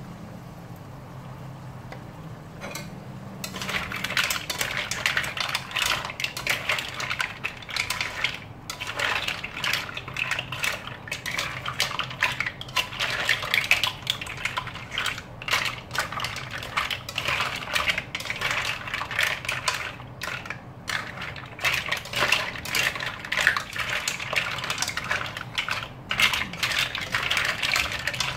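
Cooked green mussel shells clattering and scraping against each other and the pan as they are stirred with a spatula, a dense run of clicks starting about three seconds in.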